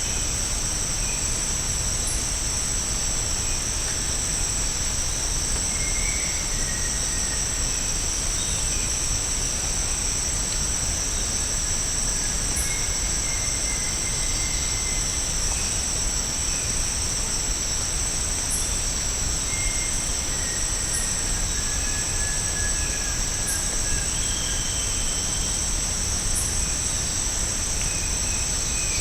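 Steady high-pitched chorus of tropical forest insects, unbroken throughout, with a few short, level bird whistles scattered through it.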